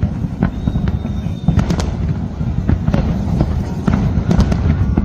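Fireworks display going off: a continuous low rumble of shell bursts, with many sharp cracks and pops coming in quick succession.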